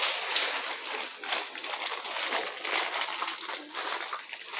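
Plastic food packaging crinkling and rustling as it is handled, in a run of irregular crackles.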